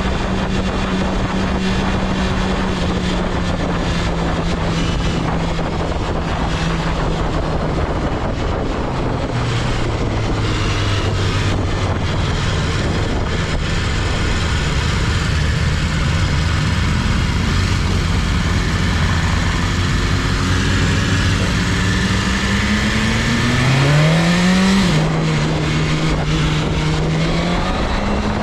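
BMW S1000RR liquid-cooled 999cc inline-four engine heard from the bike while riding, with steady wind noise. The engine runs at a steady pitch, drops to a lower pitch about nine seconds in and holds there, then revs rise near the end, drop sharply on a quick upshift, and climb again.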